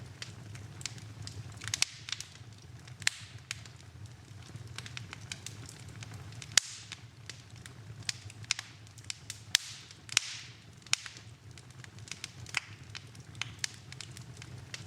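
Fire burning in a fireplace, crackling with irregular sharp pops and snaps over a low steady rumble. There is a brief hiss about ten seconds in.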